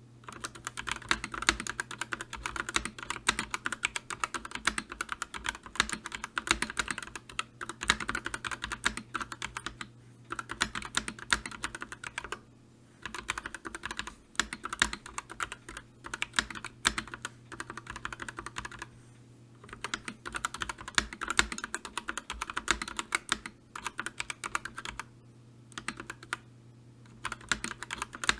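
Fast typing on a computer keyboard: a dense stream of key clicks that starts abruptly, with a few short pauses of about half a second to a second.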